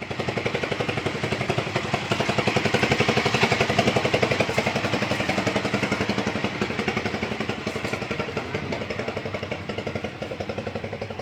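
An old engine running steadily, with quick, even firing beats.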